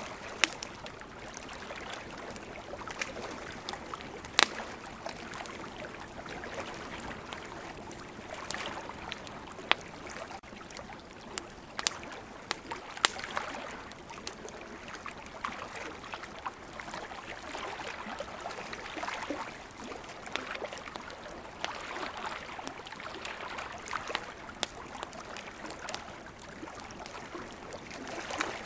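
Campfire crackling, with scattered sharp pops from the burning wood, over a steady, slowly swelling wash of ocean waves.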